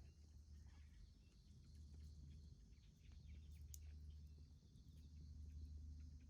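Near silence: a faint steady low rumble with a few scattered faint ticks.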